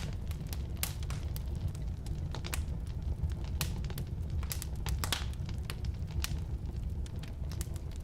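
Firewood burning in a fireplace: irregular sharp crackles and pops over a steady low rumble of the flames.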